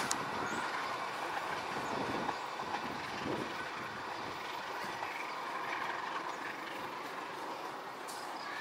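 Passenger train running away down the track, the rumble of its coaches' wheels on the rails fading slowly into the distance.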